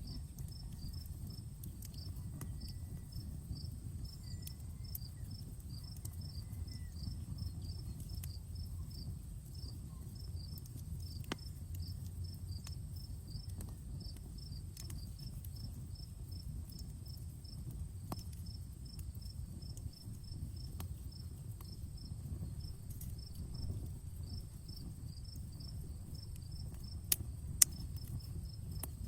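Outdoor campfire crackling, with scattered sharp pops and two louder snaps near the end, over a steady low rumble. Crickets chirp in a steady pulsed rhythm behind it.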